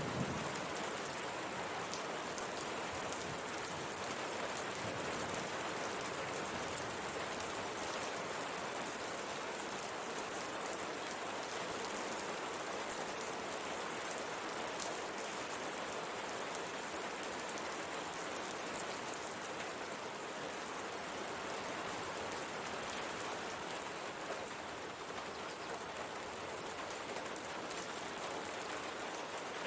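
Steady rain pattering on window glass, an even hiss of drops with many small scattered taps.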